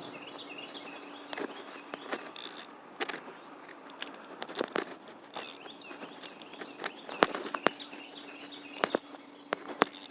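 Small birds chirping over a faint steady hum, with many scattered sharp clicks and taps.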